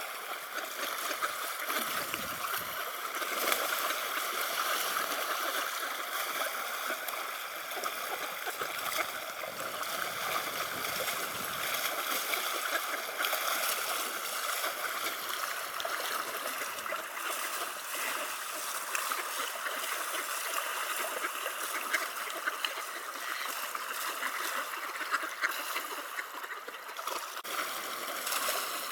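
River water flowing steadily, with small splashes scattered through it.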